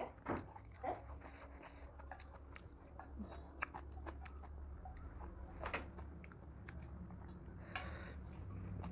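A person chewing food close to the microphone, with scattered short clicks and smacks.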